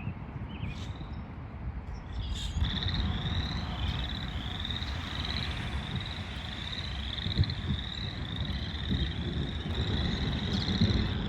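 A frog calling over and over: short rising trills, about two a second, starting a couple of seconds in, over a steady low rumble.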